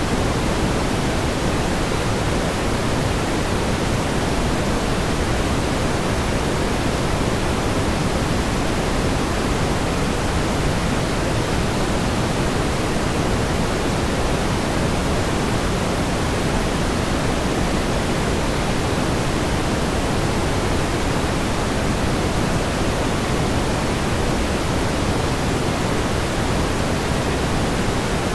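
Steady pink noise: an even, unchanging hiss weighted toward the low end, with no swells or breaks.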